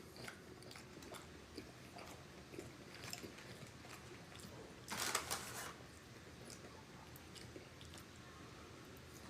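Close-up eating sounds of chicken wings being bitten and chewed: soft, scattered mouth clicks and smacks, with one louder noisy crunch lasting under a second about five seconds in.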